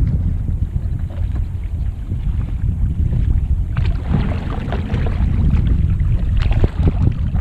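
Kayak paddle strokes splashing and dripping in the water, starting about four seconds in, over steady wind buffeting the microphone.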